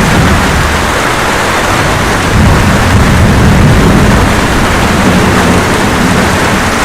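Steady rain with a low rumble of thunder that swells about two seconds in and fades a few seconds later.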